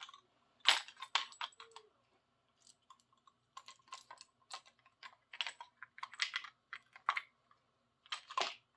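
Irregular light clicks and taps of hand tools being handled and tried against a seized adjustable wrench, coming in small clusters.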